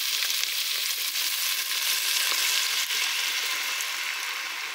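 Cut asparagus pieces sizzling steadily in hot melted margarine in a pan.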